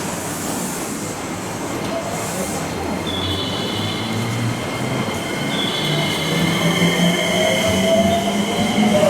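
Electric train on the JR Kyoto Line moving through the station, growing louder. High steady squealing tones set in about three seconds in, and a whine rising in pitch joins near the end.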